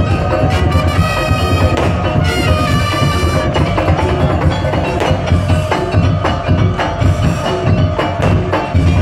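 Madurese daul (tong-tong) music ensemble playing loudly: heavy drums under sharp wood-block-like strikes and ringing tuned percussion, with a sustained melody line over them.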